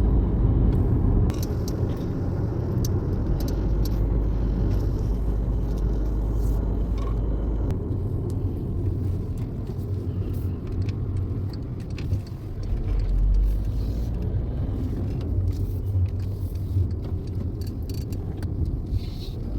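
Car cabin noise while driving: a steady low road and engine rumble heard from inside the moving car, with a few faint scattered clicks.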